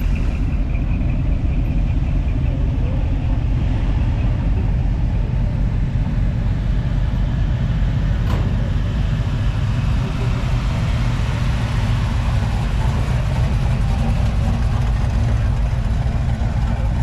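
A car engine running steadily with a deep, low rumble.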